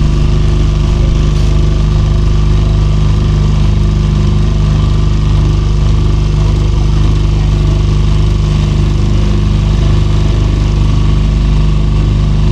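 A small motor boat's engine running steadily at an even speed.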